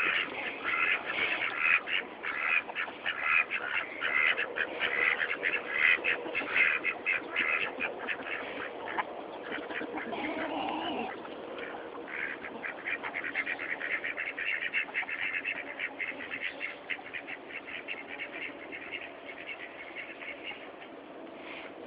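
A flock of domestic ducks quacking rapidly and continuously, many calls overlapping, louder over the first several seconds and then softer.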